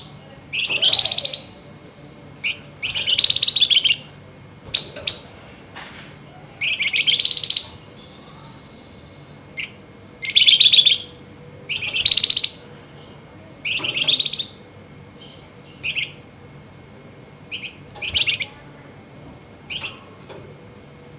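Flamboyan songbird giving loud, harsh, rapid chattering bursts (nyerecet), about a dozen, each under a second long and coming every second or two.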